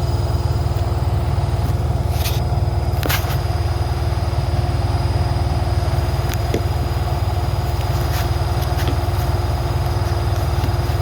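Washing machine running at full spin speed with its door open: a loud, steady drone with a rapid low rattle, broken by two brief scraping clicks about two and three seconds in.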